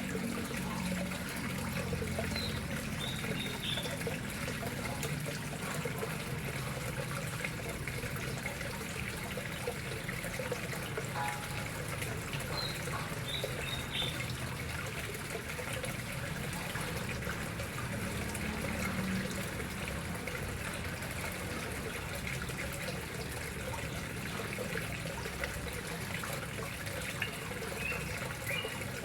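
Water steadily trickling and splashing into a koi pond. A bird chirps briefly a few times.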